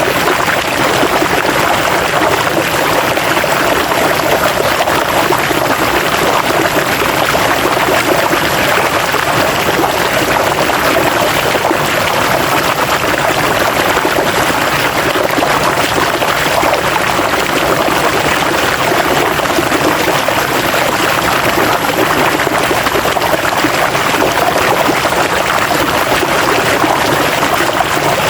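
River water flowing steadily over rocks, a constant rushing and splashing with no changes.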